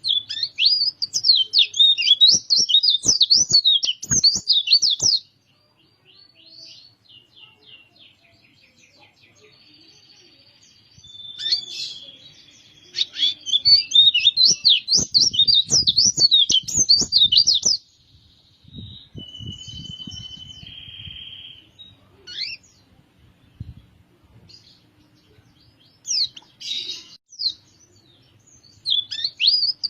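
Pleci (white-eye) songbird singing: long bursts of rapid, high twittering song a few seconds long, near the start, in the middle and again near the end, with softer chirps and short steady whistles between.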